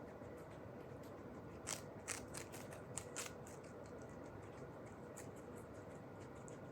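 A handful of small sharp clicks or snips, bunched together about two to three seconds in and fainter later, over a steady low background hum.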